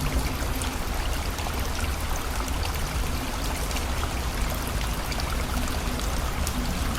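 Steady rushing of river water with rain falling, many small drop ticks scattered through it.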